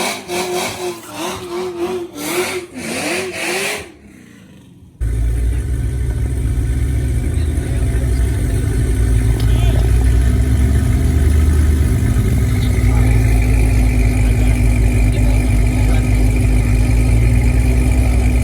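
A wavering pitched melody for about four seconds, then a moment of quiet. A car engine then comes in suddenly and runs steadily with a deep low rumble. A faint steady whine joins it about halfway through.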